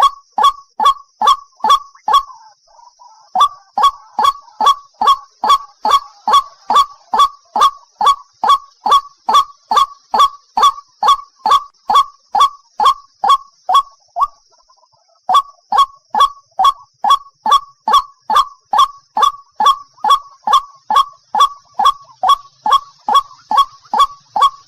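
White-breasted waterhen giving its loud, repeated 'ruak-ruak' call: short falling notes at about three a second. The calling breaks off briefly about two-thirds of the way through, then resumes.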